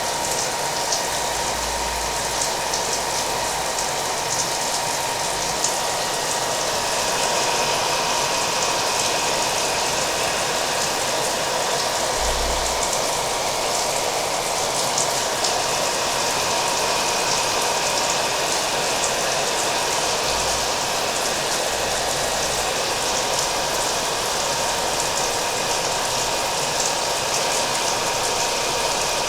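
Hair dryer running steadily, a constant blowing noise with a thin steady tone, mixed with the sound of rain.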